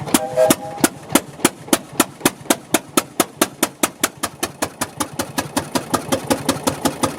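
Deutz MH320 single-cylinder, water-cooled diesel stationary engine running after a cold start, its sharp exhaust beats picking up pace from about two to about four a second as it comes up to speed.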